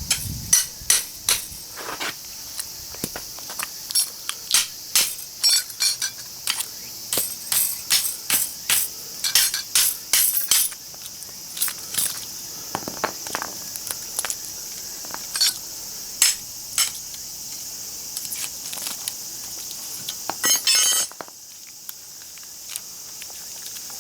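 Sharp metallic clinks and knocks, irregular and a few a second, from hand work on a small scrap transformer's iron core, with a quick rattle about 21 seconds in. A steady insect drone runs underneath.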